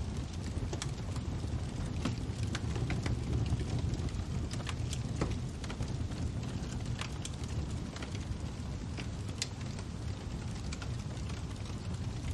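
Crackling fire: a steady low rumble of burning with irregular sharp pops and snaps, several each second.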